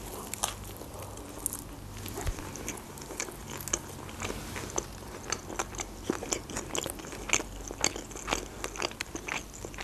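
Close-up chewing of a mouthful of chicken shawarma wrap, with many small, irregular wet mouth clicks.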